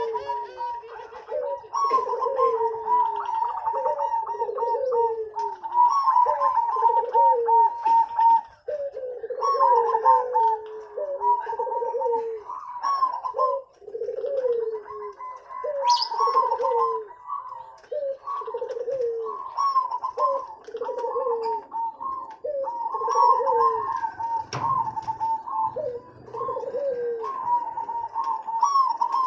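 Zebra doves (perkutut) cooing continuously, rapid strings of short coos in a higher and a lower pitch overlapping, as in a recording of perkutut song used to tutor young birds.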